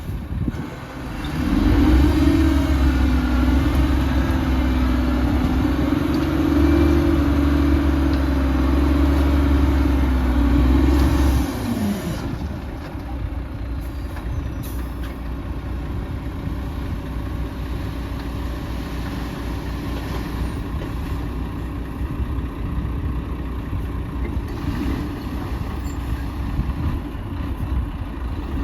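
Heavy diesel earthmoving machinery engine revs up about a second and a half in and runs hard and steady under load for about ten seconds. It then drops back to a lower, quieter running.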